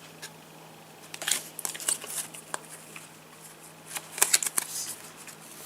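Match Attax trading cards being handled and flicked through: light card-on-card clicks and rustles, in short clusters about a second in and again around four seconds in, over a faint steady hum.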